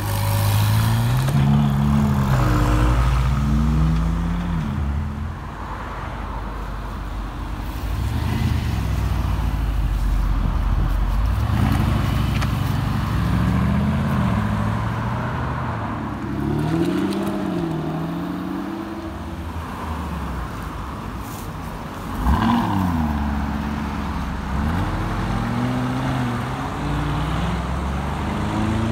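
Several sports cars accelerating away one after another, their engines revving up through the gears so that the pitch climbs, drops at each shift and climbs again. A sudden sharp, loud burst comes about three-quarters of the way through.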